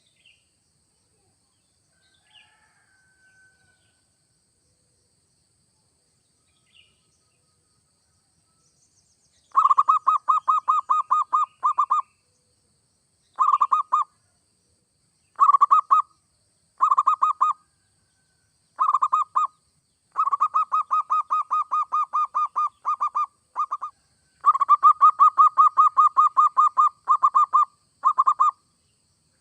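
Zebra dove (perkutut) singing its cooing song: bouts of rapid, evenly pulsed notes, each phrase lasting one to three seconds with short pauses between, starting about nine seconds in after a few faint chirps.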